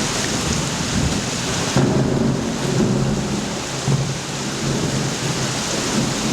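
Heavy rain with rumbling thunder: a dense, steady hiss over a low rumble that swells a few times.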